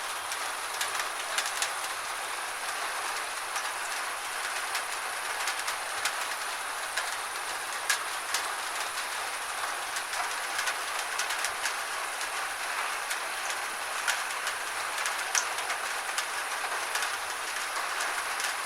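Gentle steady rain: an even hiss with many scattered sharp drop impacts.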